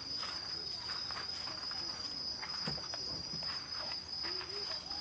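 Insects chirring steadily as one high, unbroken tone, with scattered small crackles from the campfire and a faint brief murmur of voices.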